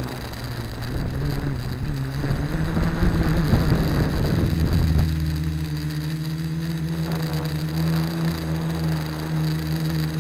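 Quadcopter's electric motors and propellers whirring, with the pitch wavering and rough noise during the first half as the craft fights gusty wind, then settling to a steady hum about halfway through.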